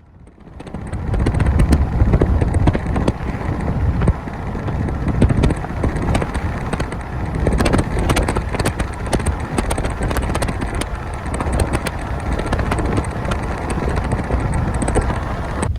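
Road vehicle on the move: steady, loud rumble of engine and road noise, with frequent rattles and knocks throughout.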